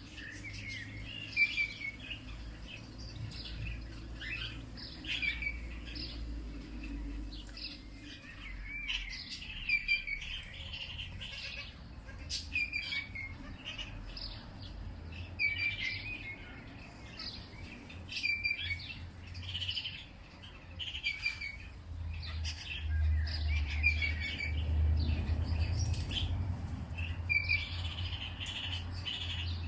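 Small birds chirping: many short, repeated calls, several ending in a quick downward slur, over a low steady rumble that gets louder in the last third.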